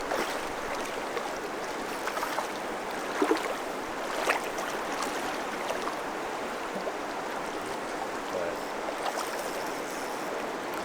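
River water rushing steadily, with a couple of brief sharp sounds about three and four seconds in.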